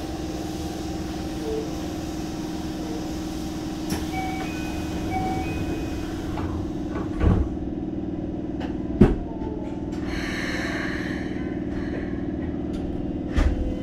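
Inside a Keikyu 600 series commuter train car: a steady electrical hum from the train with a few dull thumps, the last near the end.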